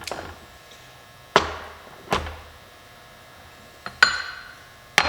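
Hammer blows on the metal parts of a drop-box transfer case being taken apart: four or five sharp strikes spaced irregularly, each ringing briefly.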